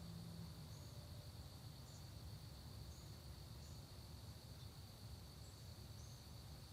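Crickets trilling in one steady high-pitched drone, with short faint high chirps now and then and a low rumble underneath; a low hum fades out about half a second in.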